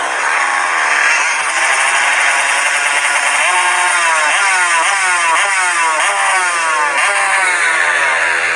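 Motocross bikes running on a dirt track, one engine revving in a run of short rising pulls, each climbing in pitch and dropping back, over the second half.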